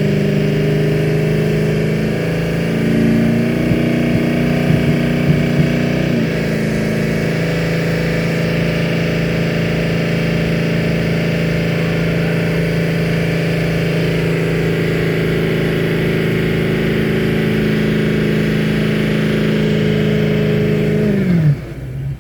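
Truck engine held at high revs during a burnout. The engine note shifts a few times in the first six seconds, holds steady for a long stretch, then falls away sharply near the end as the revs drop.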